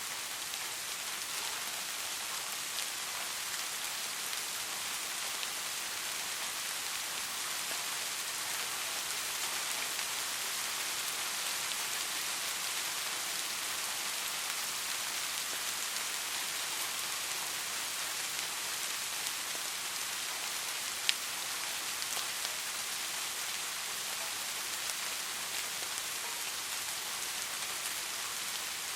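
Steady soft rain falling, an even hiss dotted with small drop ticks. One sharper single drop tick stands out about 21 seconds in.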